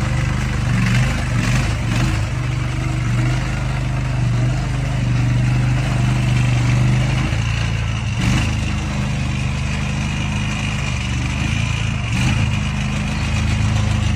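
The 23 HP gasoline engine of a Hurricane HRC700 mini skid steer running steadily, with a brief change in its note about eight seconds in and again near twelve seconds.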